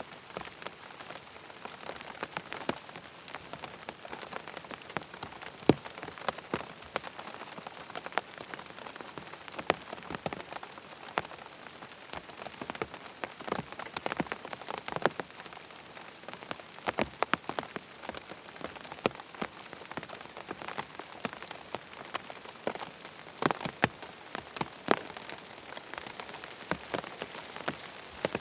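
Steady rain falling, with many sharp close drops striking a surface irregularly throughout.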